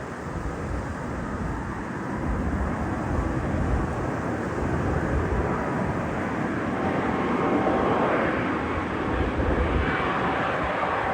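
Rolls-Royce Trent 700 turbofans of an Airbus A330-300 jet airliner passing over: a rushing jet noise that grows steadily louder as the plane approaches, with a faint engine whine coming through about halfway.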